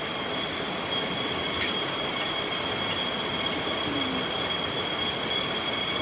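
Steady rush of stream and waterfall water, with a continuous high-pitched insect drone held over it, typical of cicadas in subtropical forest.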